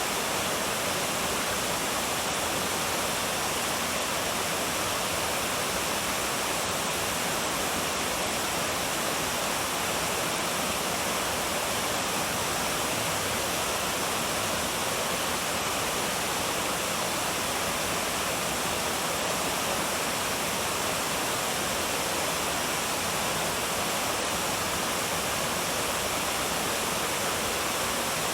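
Waterfall: water falling and rushing in a steady, unchanging wash of noise.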